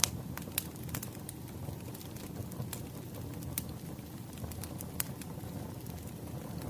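Wood fire crackling: a steady low rumble of burning logs with sharp pops and snaps at irregular intervals, the loudest right at the start and another about five seconds in.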